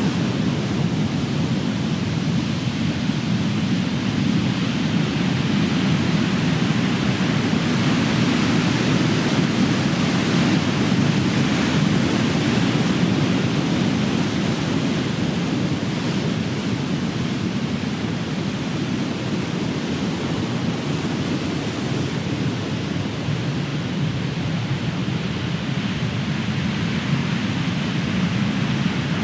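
Big ocean waves breaking and washing on the shore, a continuous rush of surf that swells a little around the middle and eases slightly later on.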